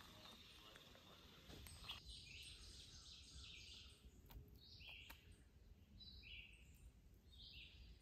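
Faint bird calls in quiet woodland. They start about two seconds in as short two-part notes, a higher note stepping down to a lower one, repeating every second or two.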